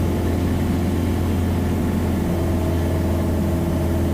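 Piper Cherokee's single piston engine and propeller running steadily, a continuous low drone heard inside the cockpit just after take-off.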